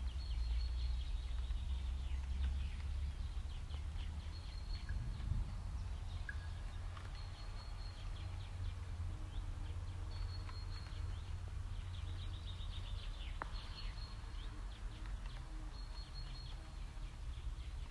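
Outdoor dawn ambience: birds chirping, with a short high-pitched trill repeating every few seconds, over a low steady rumble.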